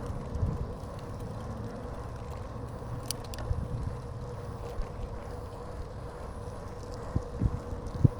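Wind rumbling on the microphone of a moving bicycle, with a faint steady hum throughout. A brief click comes about three seconds in, and a few low thumps come near the end.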